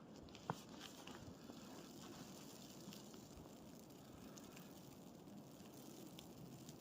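Quiet snowy-forest ambience: a faint steady low hiss with scattered soft ticks and crackles, and one sharp click about half a second in.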